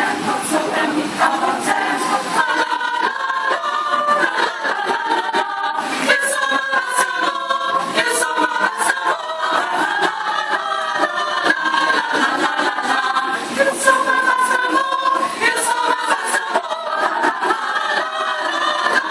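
A choir singing, many voices together in harmony.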